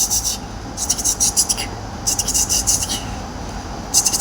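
Scratchy rubbing strokes in short bursts, each under a second and about a second and a half apart, over a steady low hum.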